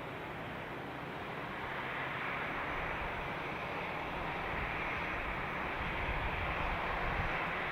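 Jet airliner's engines heard as a broad rushing noise that grows slowly louder from a couple of seconds in as the plane approaches.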